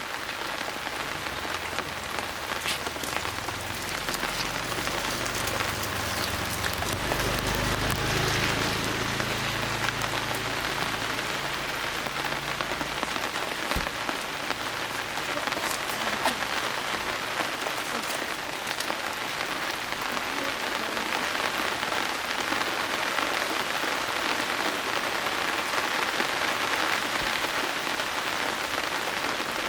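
Steady rain falling and pattering on surfaces, with sharp individual drops ticking close by. A low rumble swells and fades in the first half.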